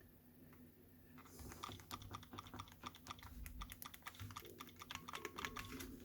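Small plastic buttons on a Nintendo Switch Joy-Con controller clicked rapidly and repeatedly, starting about a second in, several quick clicks a second.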